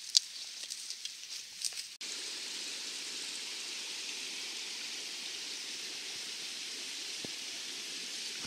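Footsteps rustling and snapping through forest undergrowth, then from about two seconds in a steady, even rushing noise with no gusts, like a stream, with a single faint knock near the end.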